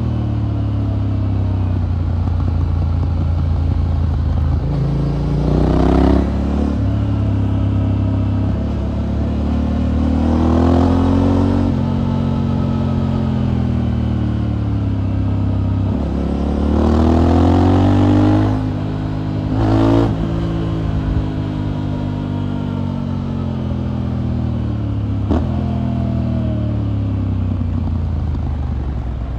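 Motorcycle engine through an aftermarket exhaust on the move. Its pitch climbs and falls as it accelerates and rolls off four times, the longest pull about two-thirds of the way through. A couple of short sharp cracks come near the peaks.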